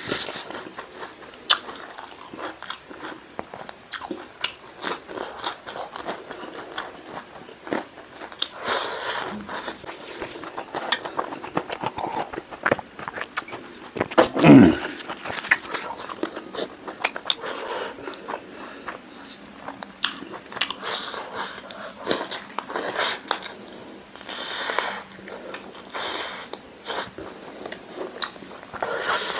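Close-up mukbang eating sounds: biting, chewing and crunching spicy chicken wings and a chicken leg piece, with many small wet clicks and smacks. About halfway through comes one short, louder low sound that falls in pitch.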